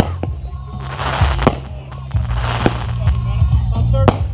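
Loud music with a heavy, steady bass, with scattered fireworks bangs cutting through it about every second or so.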